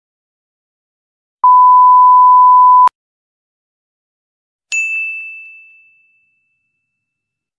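Edited-in sound effects over dead silence: a steady electronic beep about a second and a half long, cut off abruptly, then a single bright ding that rings and fades away over about a second and a half.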